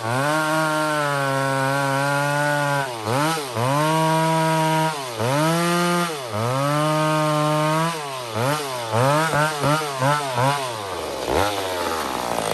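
McCulloch 850 chainsaw running at high revs, its pitch repeatedly sagging and recovering, with quicker dips in the last few seconds before the revs fall away sharply near the end.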